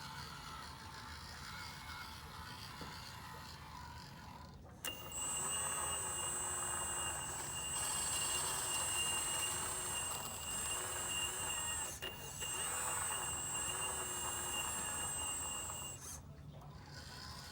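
Radio-controlled model excavator's electric motors running under load, with a steady high-pitched whine and a lower tone that wavers as the load changes. The motors start about five seconds in, dip briefly about twelve seconds in, and stop about a second before the end.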